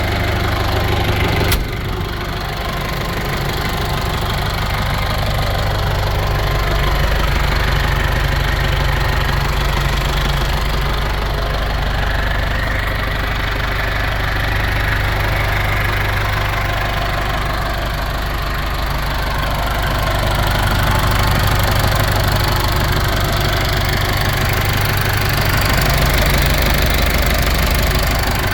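Case IH 695XL tractor's four-cylinder diesel engine running steadily at idle, with a single sharp knock about a second and a half in.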